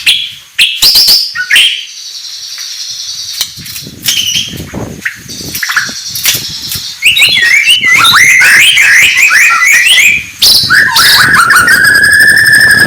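White-rumped shama singing: a varied run of quick whistles, chirps and clicks, quieter at first and louder from about halfway, ending in a long, rapid, fast-pulsing trill.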